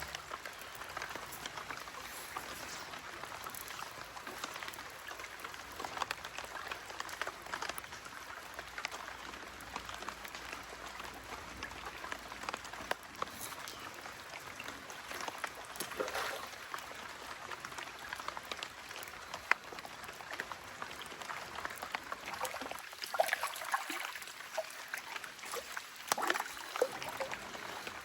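Creek water running steadily, with a light patter of small drops and splashes throughout and a few sharper ones near the end.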